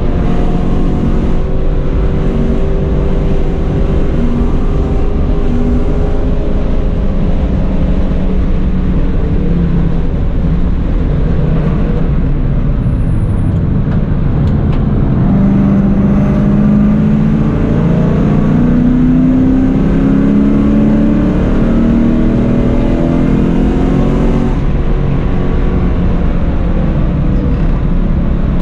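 A car's engine heard from inside the cabin at track speed, with road and wind noise. It eases off about halfway through, then pulls hard again with rising pitch for several seconds before settling.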